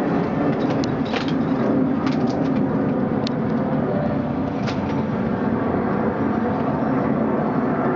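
Steady aircraft engine noise, holding level with no rise or fall, with a few faint clicks over it.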